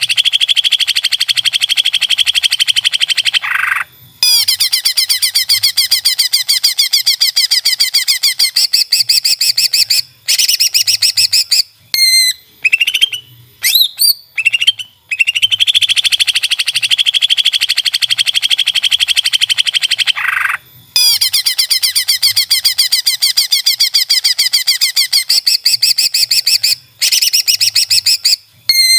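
Cucak ijo (greater green leafbird) singing in full voice: long, very rapid trills lasting several seconds each, broken by short pauses, with a few quick sweeping whistles around the middle.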